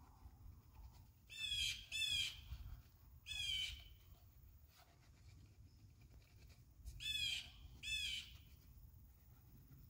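A bird calling outdoors: five short calls, a pair near the start, a single one a couple of seconds later, and another pair near the end.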